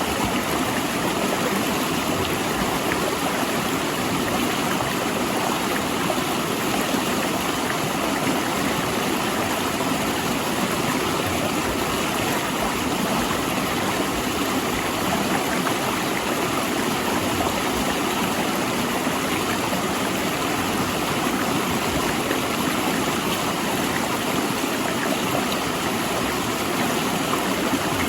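A rocky river rushing steadily between large boulders, a constant, even rush of water.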